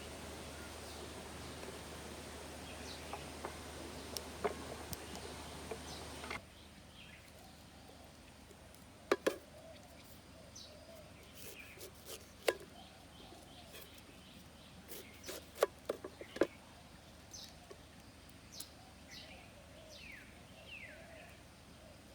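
Outdoor ambience with a steady hum and hiss that drops away suddenly about six seconds in. After that, birds call with short falling chirps, and sharp clicks and knocks come now and then.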